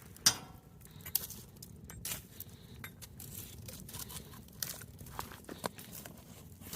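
Campfire being tended: scattered sharp clicks, knocks and clinks as hot coals and burning wood are pushed around under the fire, over a faint crackle. The loudest is a sharp knock just after the start.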